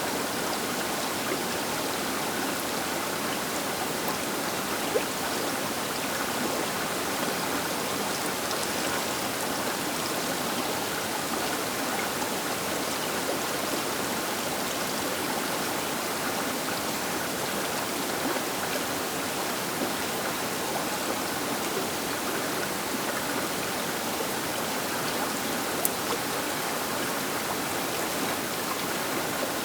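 The Baker River flowing: a steady rush of water, with a couple of brief ticks in it.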